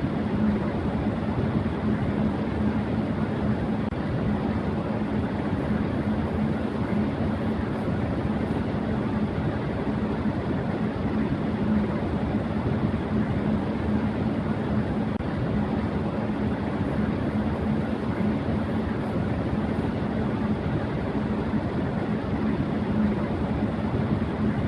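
Electric fan running at high speed: a steady rush of air with a low hum underneath.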